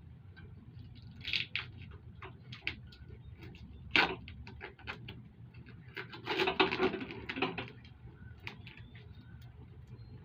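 Hand tools and bolt hardware clinking while a rack is bolted on: scattered light metal clicks, one sharp clink about four seconds in, and a quick run of rapid clicking and rattling a couple of seconds later.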